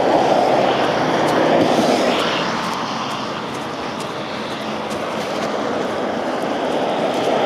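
Road traffic passing on a street: a steady rush of tyre and engine noise that swells as vehicles go by at the start and again near the end, easing in between.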